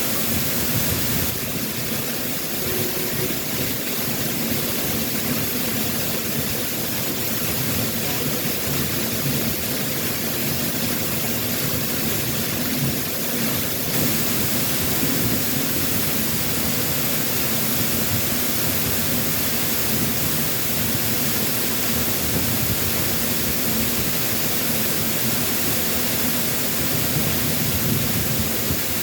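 Waterfall pouring steadily: a constant, even rush of falling water, with the stream swollen after a typhoon.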